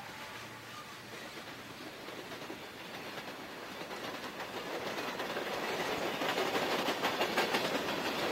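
Freight train's hopper cars rolling past, steel wheels clicking over the rail joints, the rolling noise growing louder through the second half.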